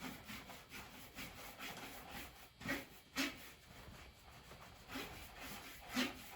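Repeated rubbing, scrubbing strokes on the cloth bag of a Kirby vacuum cleaner as it is being cleaned, a few strokes a second, with a couple of louder strokes in the middle and one near the end.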